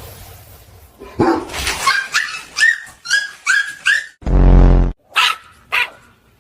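Dog barking: a run of short, quick barks from about a second in, a longer, deeper bark just after four seconds, then two sharp barks near the end.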